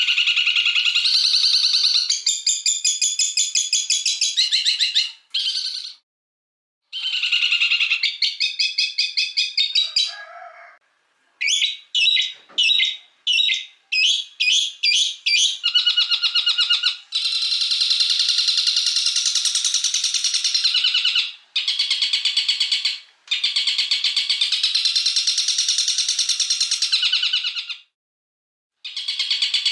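Songbird masteran recording: loud, high-pitched rapid trills and sharp chattering calls from edited, looped birdsong clips, cutting off abruptly three times between clips. A run of short separate calls comes about midway.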